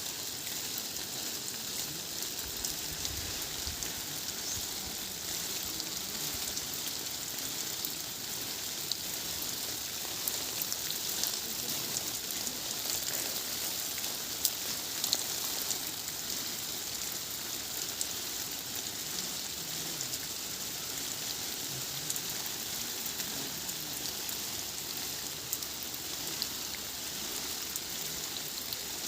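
Heavy rain pouring down, a steady hiss of rain on surfaces with a few louder ticks of single drops.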